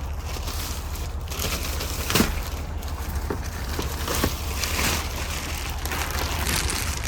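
Plastic protective covering being pulled off and crumpled by hand, rustling and crinkling irregularly, with a sharp snap about two seconds in and a smaller one about two seconds later.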